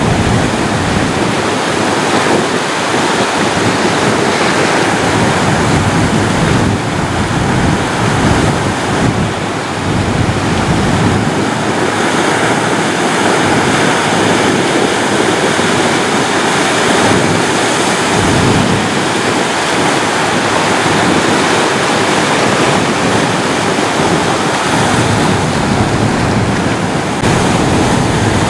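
Ocean waves washing on a shore: a continuous rush of surf that swells and eases gently without a break.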